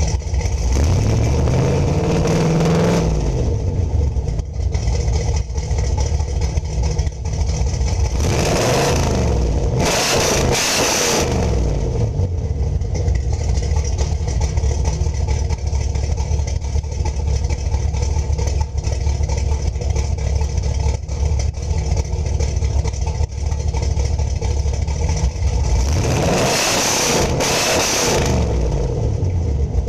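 1988 Camaro's 305 V8 exhaling through stock manifolds and true dual exhaust into Flowmaster 10 Series mufflers, idling and revved in a garage. It revs up and drops back about a second in, twice in quick succession about a third of the way in, and again twice near the end, settling to idle between.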